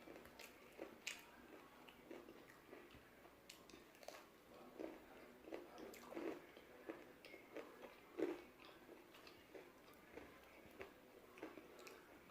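A person biting and chewing crispy fried chicken, with quiet, irregular crunches and clicks and one louder bite about eight seconds in.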